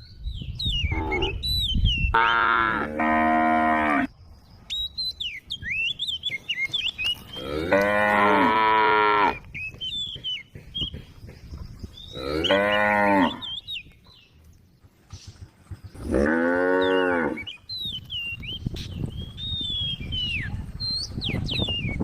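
Cattle mooing several times: about six calls, from short ones to long drawn-out moos of nearly two seconds, spaced a few seconds apart, with birds chirping in the gaps.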